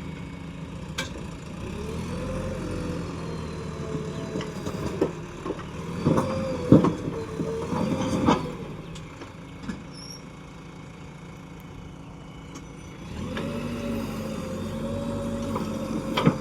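JCB 3DX backhoe loader's diesel engine revving up and down as it works the hydraulics, with a few sharp metallic knocks in the middle. It drops back toward idle for a few seconds, then revs up again.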